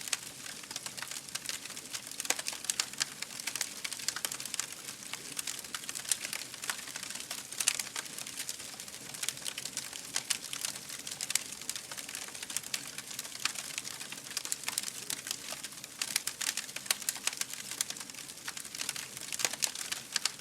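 Fire in a fireplace crackling steadily, with frequent irregular sharp snaps and pops over a soft hiss.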